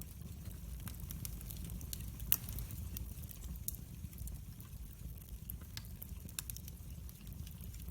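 Wood fire crackling in a fireplace: a steady low rumble of burning with irregular sharp pops and snaps, the loudest a single pop about two seconds in.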